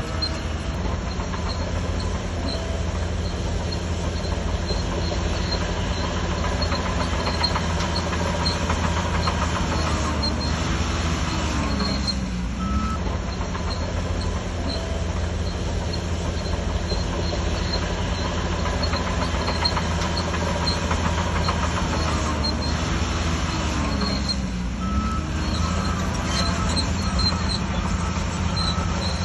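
Heavy diesel engine of a Shantui DH17C3 crawler bulldozer running steadily under load, with the metallic clatter and squeak of its steel tracks. The engine note dips briefly and recovers twice, around 12 and 25 seconds in.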